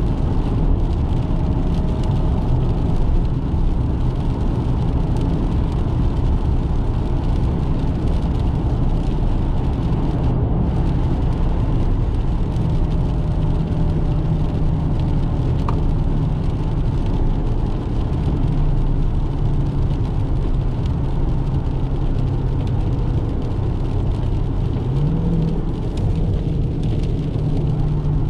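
Dodge Challenger Scat Pack's 392 Hemi V8 running while the car is driven, a steady low engine drone over constant road noise. The engine pitch rises briefly near the end.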